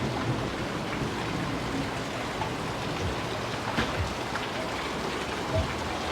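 Heavy rain falling steadily in a storm, an even hiss, with a couple of short low thumps about four and five and a half seconds in.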